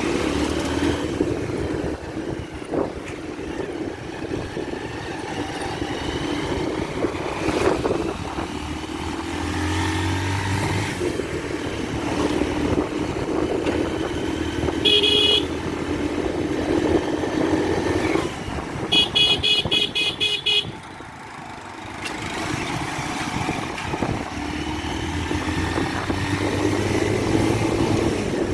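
Motorcycle riding along a road, its engine running steadily. A short horn toot comes about halfway through, and a quick string of rapid horn beeps follows a few seconds later.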